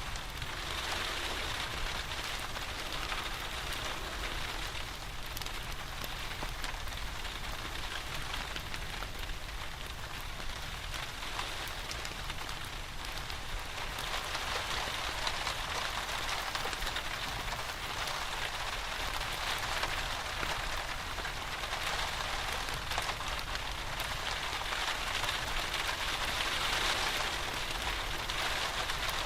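Steady rain, an even hiss dotted with many small ticks of drops, growing a little louder near the end.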